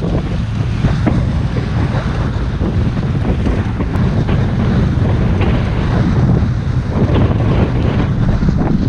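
Wind buffeting the microphone on a moving motorboat, over a steady low rumble, with water splashing against the hull now and then.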